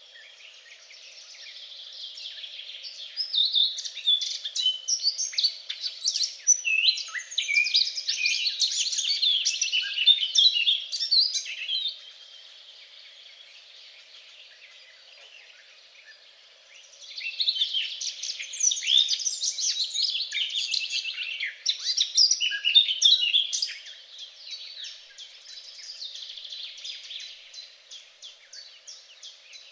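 Birdsong: several birds singing with rapid, overlapping high chirps and trills, in two loud bouts of song with softer chirping between them and near the end.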